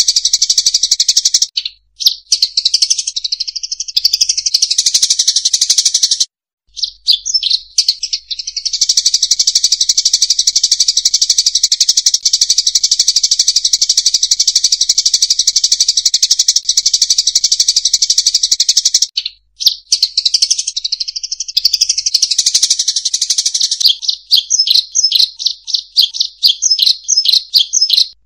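Lure-call recording of rice-field munias (emprit sawah): a dense, high, continuous chattering with a few brief breaks, turning into rapid separate chirps near the end.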